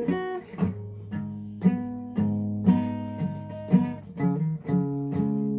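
Guitar playing chords, struck about twice a second and left to ring, with a low bass note sounding under them through the middle: a song being worked out on the guitar.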